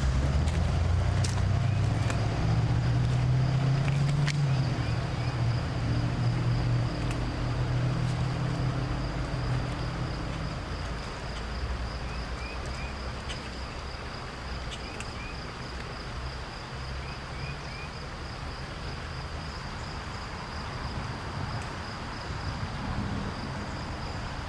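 A vehicle passing by, its low engine rumble loudest over the first ten seconds or so and then fading away, while an insect keeps up a steady high-pitched trill. A few faint short chirps come and go.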